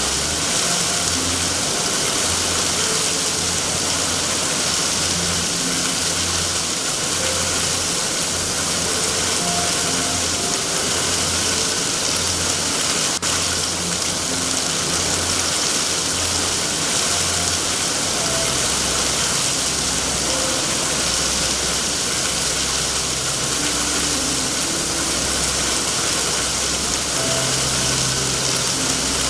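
Steady rain hissing without a break, with a low, uneven rumble underneath that drops lower about two-thirds of the way in.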